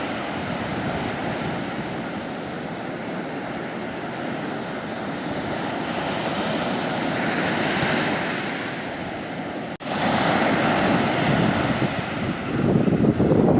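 Sea waves washing onto the beach, a continuous rushing surf that swells and recedes, with wind buffeting the microphone. A momentary dropout near the middle, after which a louder wave comes in, and the surf rises again near the end.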